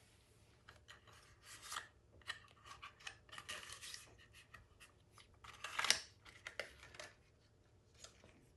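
Faint handling noises of hand work on a small engine: irregular scraping, rubbing and light clicks of tools and metal parts, with one louder scrape about six seconds in.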